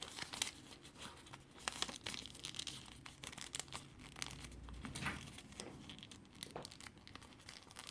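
Origami paper being folded in half and creased by hand: faint rustling and crinkling with many small crackles.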